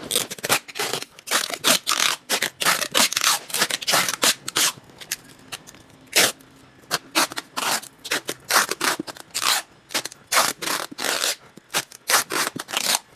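Packing tape being pulled off the roll and pressed onto a cardboard box in many quick rasping pulls, one after another.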